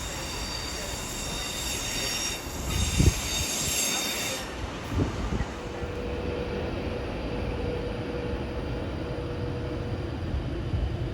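Train squealing with several steady high-pitched tones that cut off about four and a half seconds in, with two heavy thumps, one just before and one just after. Afterwards a fainter steady tone and rumble of the train remain.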